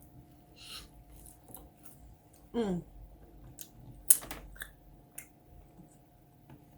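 Mukbang eating sounds: soft chewing and rustling, a short 'mmm' hum whose pitch falls, and a sharp click about four seconds in, the loudest moment, like a utensil or container lid.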